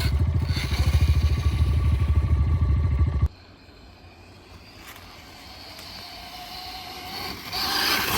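Small dirt bike engine running close by with a rapid, even firing beat, cutting off abruptly about three seconds in. After that a fainter engine rises slowly toward the end.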